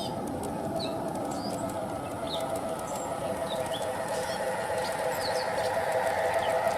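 G gauge model locomotive's electric motor and gears running with a steady hum that grows louder toward the end as the train comes closer. Short bird chirps sound throughout.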